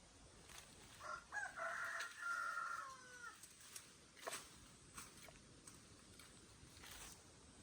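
A rooster crowing once, starting about a second in: a call of about two seconds that drops in pitch at its end. A few faint clicks follow.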